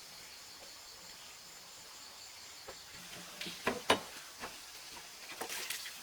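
Insects chirring steadily in a high, finely pulsing tone. A few sharp knocks and clicks come about halfway through, the loudest just before the four-second mark, and a few more come near the end.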